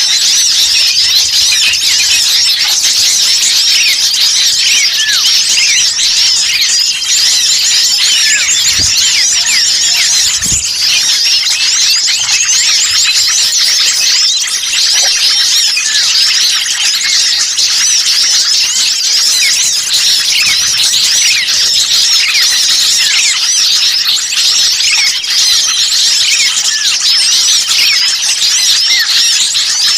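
A dense, noisy chorus of many small songbirds chirping and twittering at once, a bird-lure (pikat) recording of agitated small birds. The calls are high-pitched and overlap without a break.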